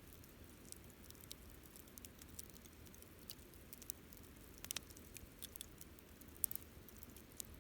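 Wood fire burning with irregular crackles and snaps over a low steady rumble of flame. There is a quick cluster of pops a little under five seconds in and a sharper snap about a second and a half later.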